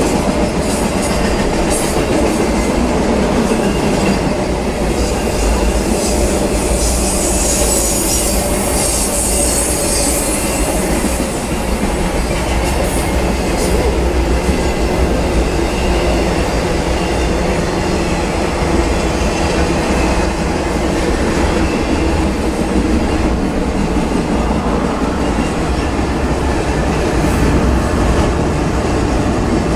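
Norfolk Southern intermodal freight train's container cars rolling past, a steady rumble and clatter of wheels on the rail joints. A stretch of high-pitched wheel squeal rises about seven seconds in and fades a few seconds later.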